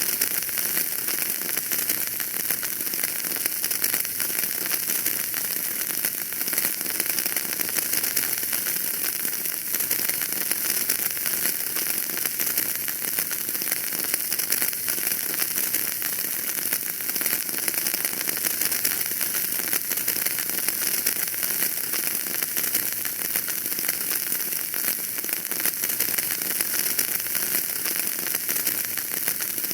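Wood fire burning in a fireplace, crackling steadily: a dense stream of small pops over an even hiss.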